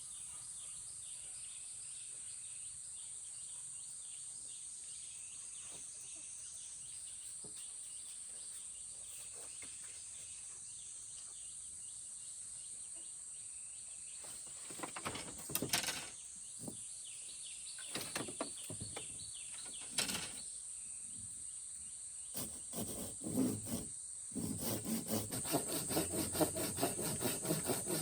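A steady high insect drone in the background. From about halfway in come scattered knocks and scrapes of wood being handled, and in the last few seconds a quick, regular run of scraping strokes on wood from a hand tool.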